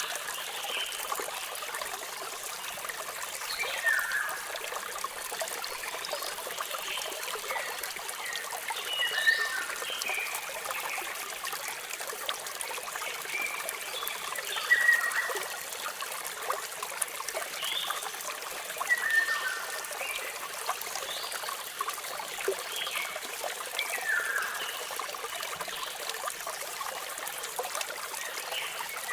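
Steady rush of running water from a waterfall, with birds chirping over it: short sweeping calls every few seconds.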